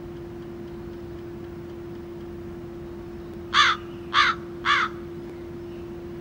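A bird calls three times in short calls about half a second apart, a little past halfway in, over a steady low hum.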